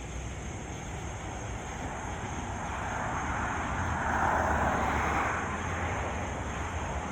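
A vehicle going by: its noise swells to loudest about four to five seconds in and then fades, over a steady low rumble.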